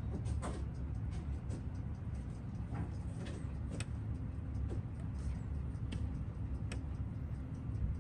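A Seiko 6139 automatic chronograph ticking on a timegrapher with its chronograph running, heard as faint fast ticking over a steady low hum, with a few irregular sharper clicks.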